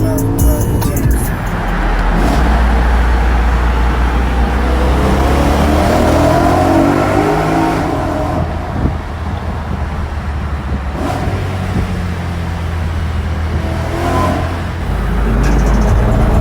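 Car engine and exhaust accelerating hard in long pulls, its pitch rising steadily through each pull, with a short drop in between.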